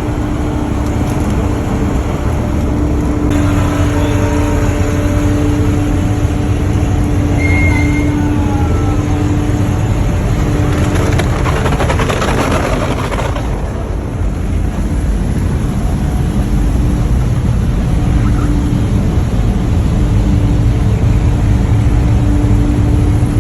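A fishing boat's engine running steadily with a low rumble and a constant hum. About halfway through, a rushing hiss swells for two or three seconds and then dies away.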